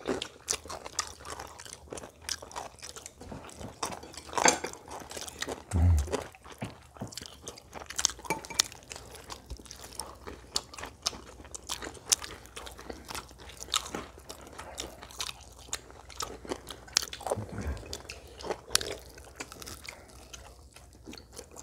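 Several people chewing, biting and crunching food, with scattered light clicks of chopsticks and forks against plates and a low thump about six seconds in.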